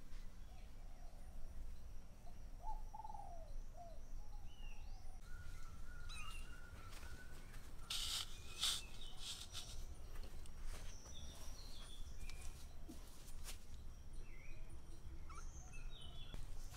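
Birds chirping intermittently with short scattered calls over a steady low background noise. About eight seconds in there is a brief cluster of knocks and scrapes, as of something being handled and set down.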